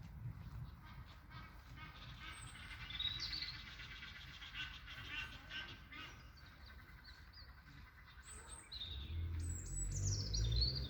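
Songbirds singing: a run of quick repeated chirps, then high whistled notes that fall in pitch near the end. A low rumble comes in near the end.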